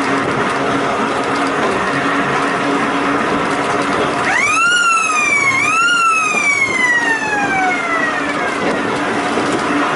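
An emergency-vehicle siren wailing: about four seconds in, its pitch rises sharply, dips, rises again and then falls slowly away over two to three seconds. It sounds over a steady mechanical rattle and hum of running machinery.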